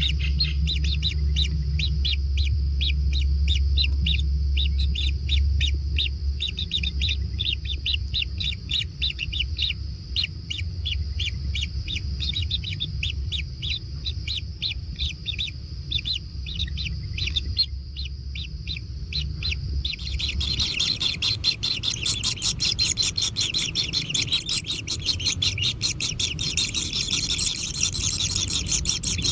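Kingfisher chicks begging with rapid, evenly repeated high chirps, about four a second, over a low hum. About two-thirds of the way through, the hum stops and the chirping becomes a denser, higher, near-continuous chatter.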